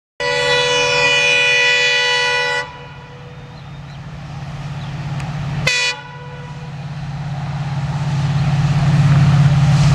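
WDP4D diesel locomotive sounding its horn: one long blast of about two and a half seconds, then a short toot about three seconds later. Under both, the low rumble of the approaching train grows steadily louder.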